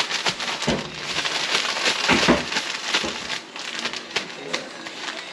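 Seasoned gar chunks being shaken in dry fish-fry breading to coat them: a steady, irregular rustling and crinkling, with a couple of heavier thuds about a second and two seconds in as the pieces tumble.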